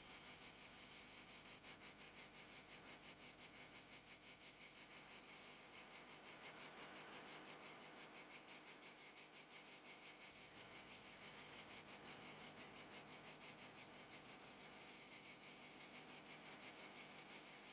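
Faint, steady chorus of chirping insects, pulsing evenly several times a second in a high, thin band.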